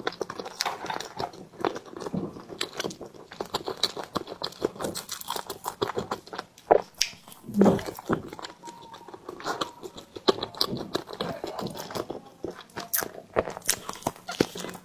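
Close-up mouth sounds of someone biting and chewing steamed bread: a dense, irregular run of small sticky clicks and smacks, with a louder bite or two a little past the middle.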